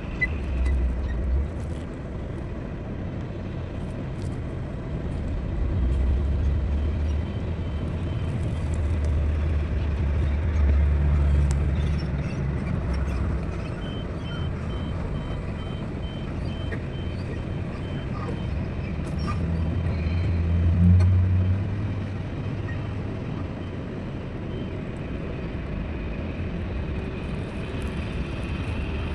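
Heavy diesel engines of an excavator and dump trucks at work. The low rumble swells twice as the engines take load. For about five seconds in the middle there is a run of short, evenly spaced high beeps.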